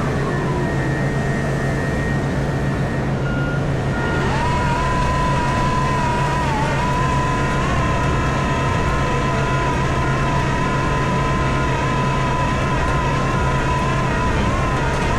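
Komatsu PC4000 hydraulic excavator heard from its cab: the diesel engine runs steadily. A whine falls in pitch at the start, and from about four seconds in a steady high whine sets in, wavering slightly, typical of the machine's hydraulics working under load.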